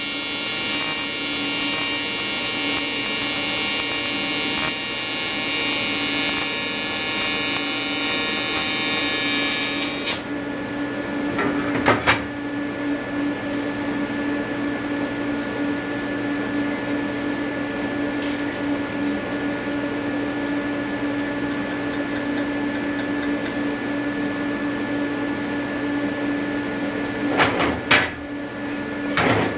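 Buzzing AC TIG welding arc from an Everlast 325EXT set on square wave, running steadily for about ten seconds and then cut off. A steady hum stays on afterwards, with a few short knocks about two seconds later and near the end.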